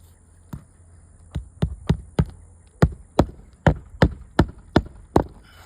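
Hammer driving roofing nails through asphalt shingles: about a dozen sharp strikes, two to three a second, starting about half a second in and stopping just after five seconds.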